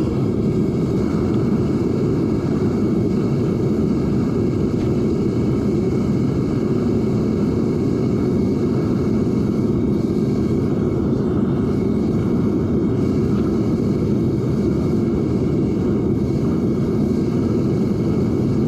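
Propane burner of a Devil Forge melting furnace running steadily at about 1.2 psi while melting copper, an even low rushing noise that does not change.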